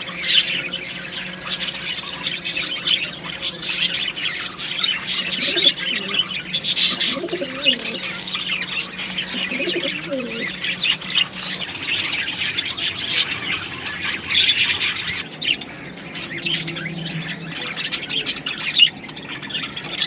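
Budgerigars chattering and warbling continuously, a dense mix of quick chirps and squeaks, with a few lower wavering calls in the middle.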